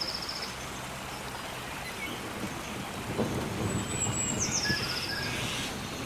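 Rainforest nature-sound recording: steady rain, with a low thunder rumble that swells from about three seconds in. Partway through, a bird gives a high whistled call that drops in pitch into a short trill.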